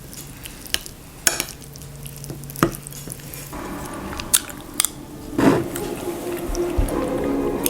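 Clinks and clatter of dishes and cutlery, a few sharp knocks scattered over a steady background din that grows busier about halfway through.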